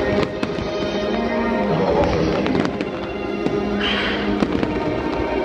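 Fireworks popping and crackling over loud music from a love-movie soundtrack played for the show, with a brief hissing burst about four seconds in.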